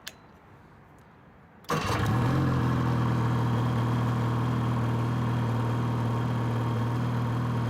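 A Ski-Doo 600 H.O. E-TEC two-stroke snowmobile engine started on the button: it catches suddenly about two seconds in, rises briefly and settles into a steady idle.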